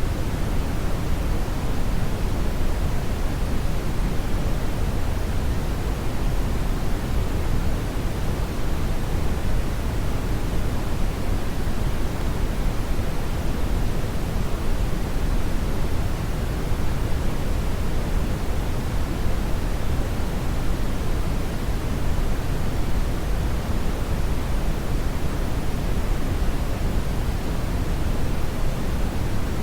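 Steady brown noise: a continuous, even rushing hiss weighted heavily toward the deep end, with no changes or events.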